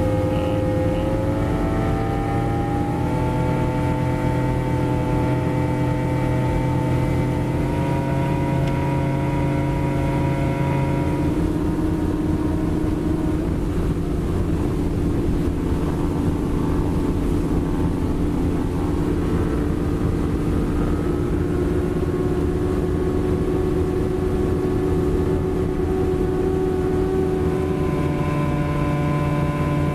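Boat outboard motors running under way. The engine pitch rises over the first few seconds, eases down about eleven seconds in, and picks up again near the end.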